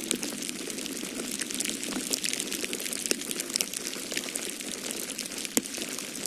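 Wood fire crackling in a fireplace: frequent small irregular pops and snaps over a steady hiss, with one louder pop about five and a half seconds in.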